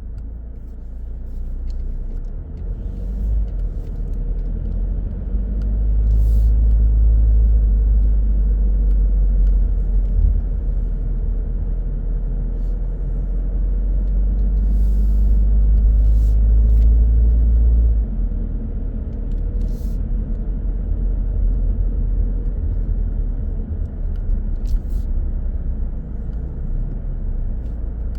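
A car driving on the road: a steady, deep rumble of tyres and engine that swells for a stretch of about twelve seconds and then eases back. A few faint ticks come through now and then.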